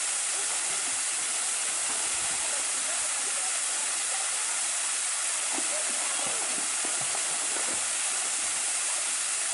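Waterfall: falling water making a steady rushing hiss with no change in level.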